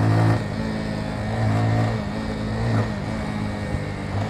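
Motorcycle engine running while riding. Just after the start the engine eases off slightly, then it holds a fairly steady pitch with small dips.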